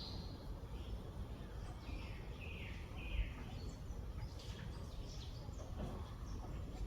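Wild birds calling, several short chirps and sliding calls, over a steady low background rumble, with a brief low thump about three seconds in.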